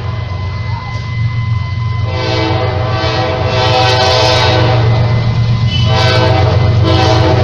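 Train horn sounding twice, a long blast of about two and a half seconds and then a shorter one, over the steady low rumble of a moving train.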